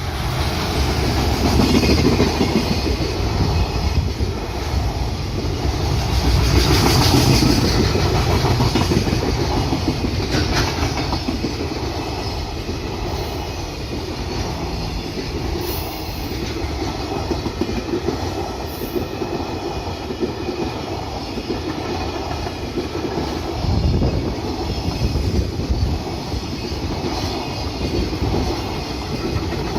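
Freight train wagons rolling past close by, their wheels clacking in a steady rhythm over the rail joints.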